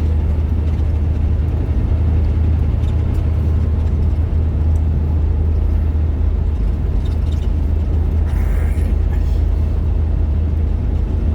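Steady low drone of engine and road noise inside a moving vehicle's cab.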